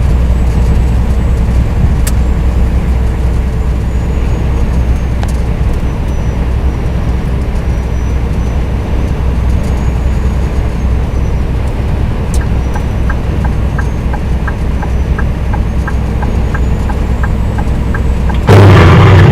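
Scania R420 truck driving, a steady low engine and road drone. About two-thirds in, a light regular ticking starts at about three ticks a second. Just before the end, a much louder sound with a low pitch cuts in suddenly.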